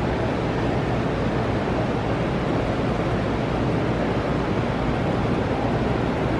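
Steady rushing noise with a low rumble, the sound of wind buffeting the microphone.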